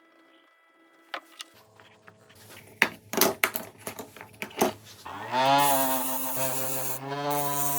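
A few clicks and knocks, then an electric power tool's motor starts about five seconds in, rising in pitch and running steadily.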